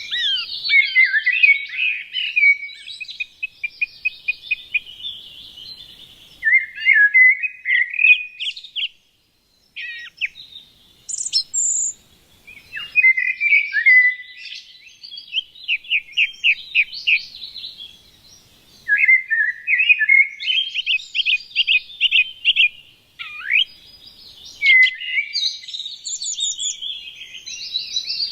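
Small songbirds singing: phrases of varied warbles and quick trills lasting a few seconds each, with short pauses between them. The sound cuts out completely for about a second midway.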